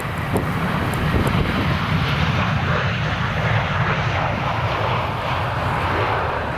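Airliner's jet engines, a steady loud rush.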